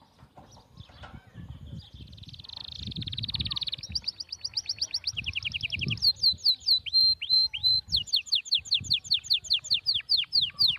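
A songbird singing in long rapid trills, strings of quick, high falling notes about five or six a second, getting louder through the first half and holding on to the end. Soft rustling of fabric being handled lies underneath.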